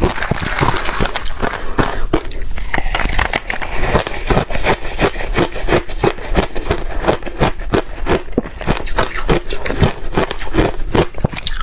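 Ice being bitten and chewed close to the microphone: rapid crunches, several a second, without a break.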